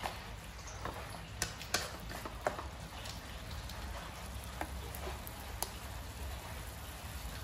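Stir-fried noodles, sausage and vegetables sizzling in a metal pan, with scattered sharp taps of a spatula against the pan, most of them in the first few seconds.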